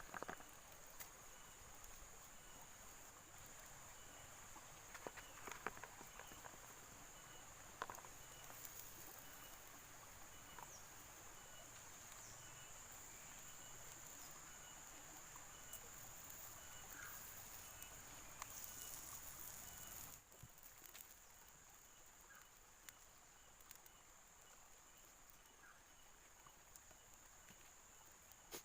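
Faint outdoor ambience: insects trilling in a steady high drone, with a fainter repeating chirp and a few soft scattered clicks.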